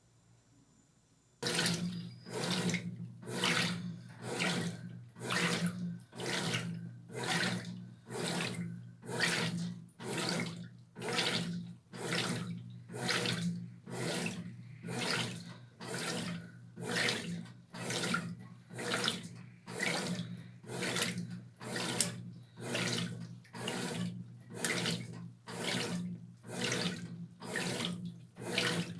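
Brastemp Tira Manchas Pro 12 kg top-loading washing machine starting its wash stroke about a second and a half in: a steady motor hum with a swish of churning water and clothes about once a second.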